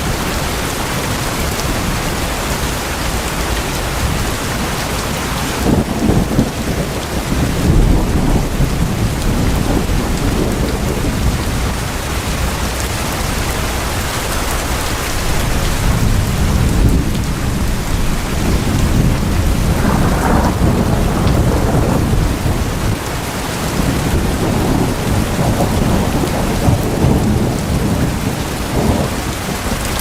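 Steady heavy rain on tin roofs, with low thunder rolling in and swelling several times: first about six seconds in, again in the middle and near the end.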